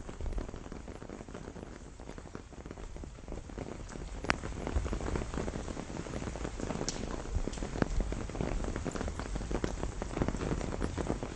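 Steady rain shower falling on a pomegranate tree's leaves, with many close drop ticks and a few sharper drip hits. It gets slightly louder after the first few seconds.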